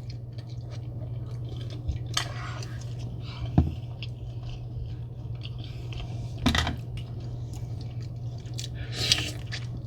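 Close-up eating of a seafood boil: wet chewing and the handling of shellfish in sauce, with a few sharp clicks and taps, the loudest about three and a half seconds in. A steady low hum runs underneath.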